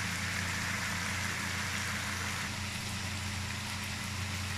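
Chicken and onions frying in a wok over a gas flame, with a soft steady sizzle that thins a little about halfway through, over a steady low hum.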